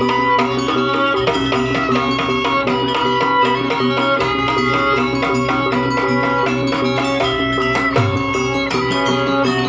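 Jaranan gamelan music played live: struck, ringing tuned percussion with hand-drum beats over a steady held drone, at an even loud level.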